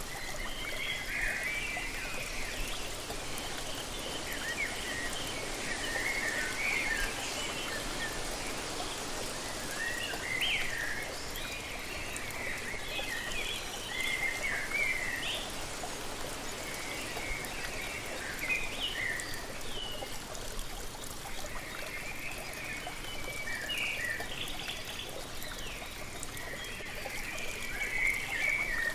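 Steady rushing of falling water with birds chirping over it, short bursts of calls every few seconds.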